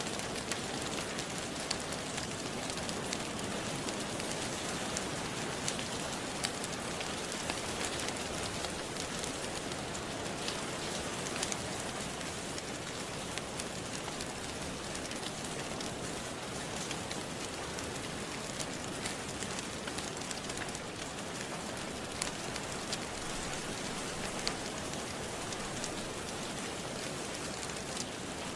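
Steady rain falling, with scattered sharp crackles of a wood fire in a fireplace.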